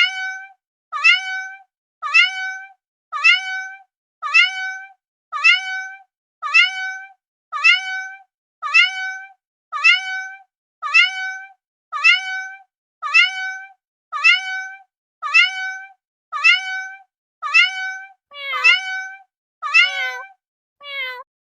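A cat meowing over and over: about twenty short, rising meows, one roughly every second, each nearly identical to the last. Near the end a lower meow overlaps them and the calls change.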